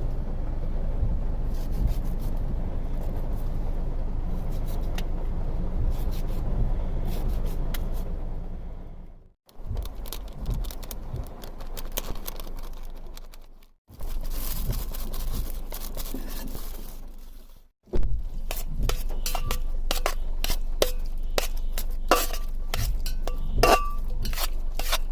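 Kitchen utensils and dishes clinking and scraping during food preparation, with a low steady rumble underneath. The sound drops out briefly three times, and the clicks come thick and fast in the last few seconds.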